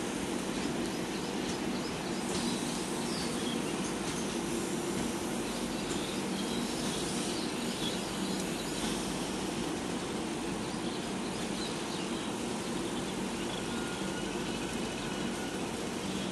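Steady rumble of an express train's LHB passenger coaches rolling slowly past as the train draws into the station. Faint, short high chirps sound over it now and then.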